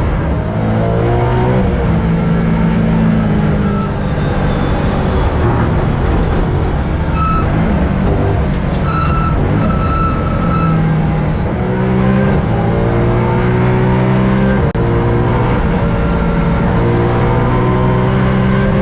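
Race car engine at full throttle on track, repeatedly climbing in pitch and dropping back at each gear change. There is a brief high-pitched squeal near the middle.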